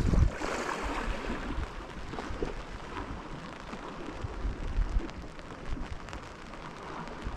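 Steady rain falling, with wind buffeting the microphone in a low rumble that is strongest right at the start.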